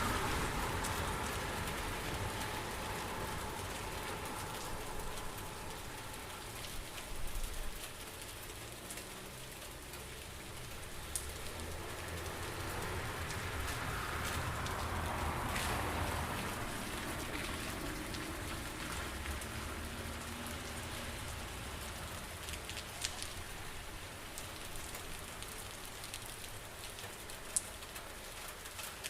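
Steady rain falling, with a few sharper drops striking now and then.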